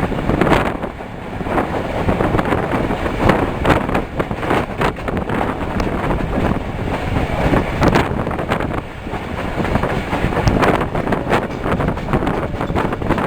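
Passenger train running along the track: a steady rumble and rush of air with irregular clattering knocks from the wheels over the rail joints.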